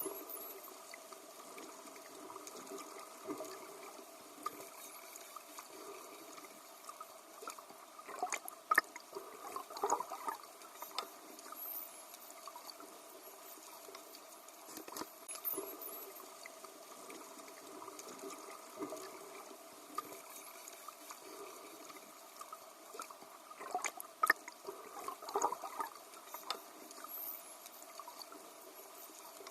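Dolphins swimming: steady water sloshing and bubbling, with scattered sharp clicks and a few faint, short, high chirps.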